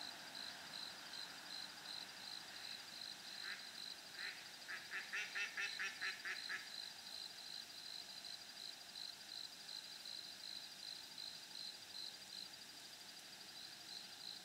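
A bird calls a quick run of about ten notes, starting a few seconds in and lasting about three seconds. Under it runs a steady, high chirp that pulses about three to four times a second.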